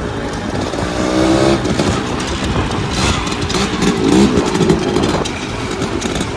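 Motorcycle engine running on the move, with loud rushing wind noise over it; the engine pitch rises briefly as it accelerates about a second in.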